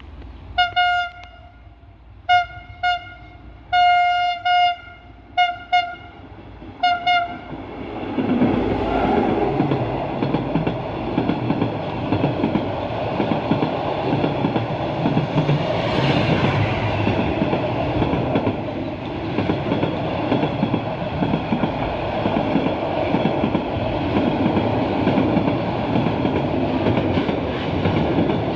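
Train horn sounding a series of about seven short toots on one pitch, one of them held longer. About eight seconds in, the train arrives and passes close by, a loud steady rumble with the clatter of wheels on rail joints.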